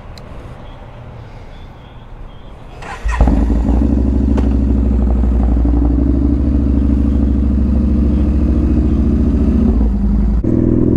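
Yamaha Bolt's air-cooled V-twin with a Dean Speed stainless exhaust, quieter for about three seconds, then suddenly much louder and running steadily at constant revs, with a short dip near the end.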